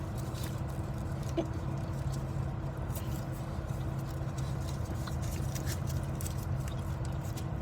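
Steady low drone inside a car's cabin, with a faint constant hum and a few small clicks and rustles.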